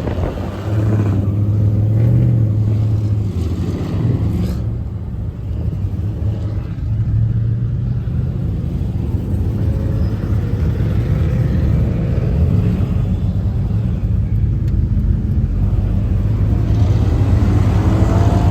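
A vehicle engine running with a steady low rumble, dipping briefly about five seconds in.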